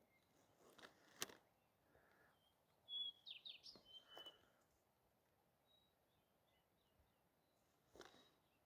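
Faint bird chirping outdoors: a quick run of short, high chirps about three seconds in, then a few fainter ones, with a single sharp click shortly before them.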